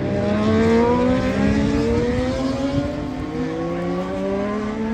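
Racing motorcycle engine accelerating hard, its pitch climbing steadily as it pulls through a gear.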